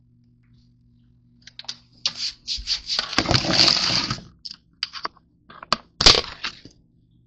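Crinkling and crunching noises in quick short bursts, with a longer dense stretch about three seconds in and a few sharp cracks near the end.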